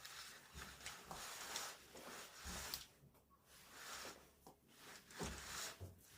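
Soft, irregular rubbing and rustling of household cleaning or handling, several swishes with short pauses between them and a light knock near the end.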